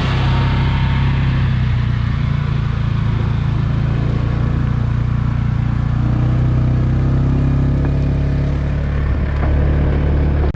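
Polaris RTV utility vehicle's engine running steadily as it drives across the fields, a low, even drone.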